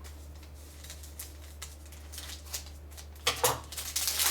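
Small clicks, taps and rustles of a puzzle box and its packaging being handled and opened, with a louder burst of handling noise about three seconds in.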